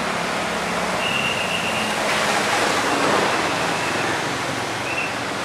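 Steady hiss of rain falling and water dripping from wet trees, swelling a little about two seconds in. A faint high tone comes and goes a few times.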